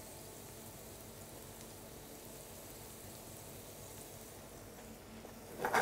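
Potatoes and sliced onion frying in butter in a frying pan, a faint steady sizzle. Right at the end, tongs start stirring and scraping in the pan.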